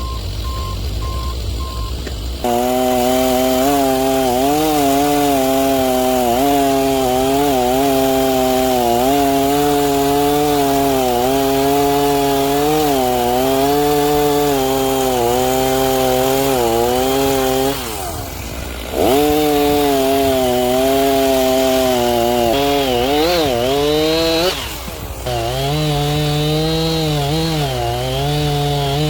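Two-stroke Stihl chainsaw running at full throttle through a log, coming up to speed about two seconds in. Its engine note wavers under the load of the cut, and twice it drops off and revs straight back up, about two-thirds through and near the end.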